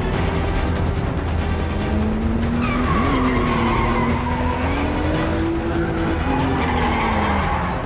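Car engines revving up and down at speed, with tyres squealing several times, over a steady low rumble and a film score.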